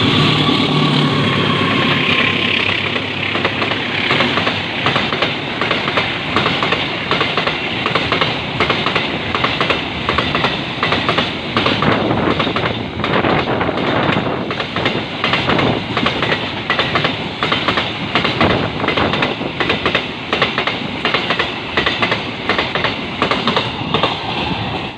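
A train passing close by: its wheels clack over the rail joints in a fast, continuous rhythm under a loud rumble of running noise.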